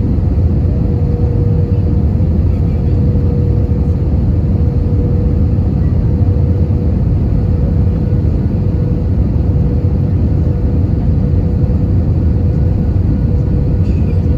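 Airbus A320-200 cabin noise: a steady, loud rumble of engines and airflow with a constant hum over it.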